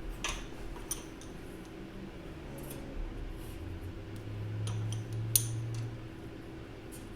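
Sharp metallic clicks and clinks from a homemade joggle die crimping a joggle seam into 18-gauge sheet steel. The loudest click comes a little past five seconds in, and a low hum swells between about four and six seconds.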